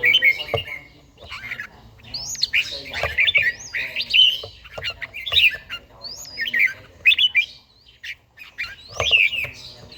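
Red-whiskered bulbul singing: short, bright whistled phrases with quick up-and-down glides, repeated every second or so with brief pauses.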